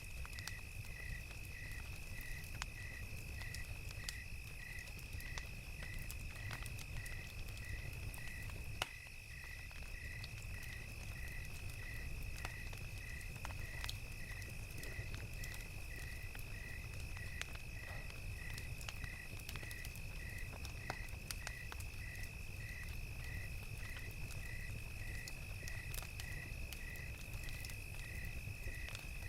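Crickets chirping steadily about twice a second over a continuous high insect trill, with a campfire crackling in scattered sharp pops and a low steady rumble underneath. One louder pop comes about nine seconds in.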